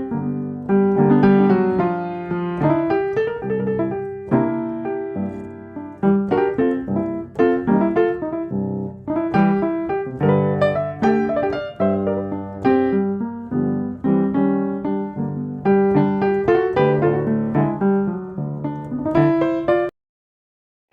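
Solo piano music, a steady run of struck notes, which cuts off suddenly near the end.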